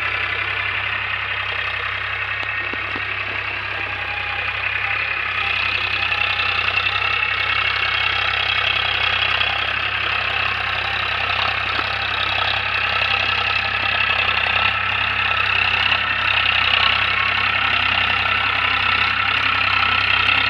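Powertrac Euro 47 tractor's diesel engine running steadily, a little louder after about five seconds.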